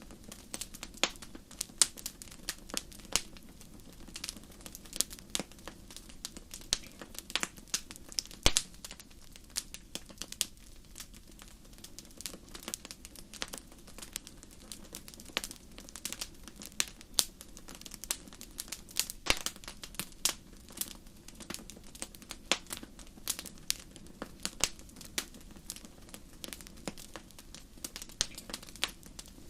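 Wood fire burning in a fireplace: irregular crackling and popping of burning logs, several sharp pops standing out, over a soft steady hiss.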